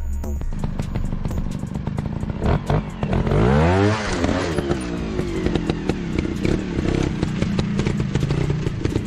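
Motocross bike engine running and revving, its pitch sweeping up and back down about four seconds in, with clattering knocks throughout.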